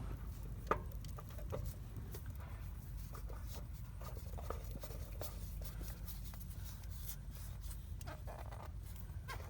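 Light scraping and clicking of hand work on the truck's underside as the new oil filter is threaded on by hand, with one sharper click near the start, over a steady low rumble.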